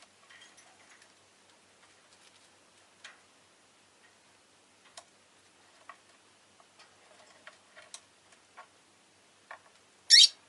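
Faint, scattered clicks and ticks, then a peach-faced lovebird gives one short, loud, shrill chirp near the end.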